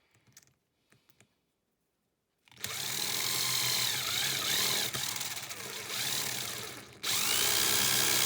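Small power tool machine-polishing a handmade metal fishing spoon. It runs for about four seconds with its pitch wavering as it is loaded, cuts out for a moment, then runs again for just over a second before stopping. A few faint clicks come before it starts.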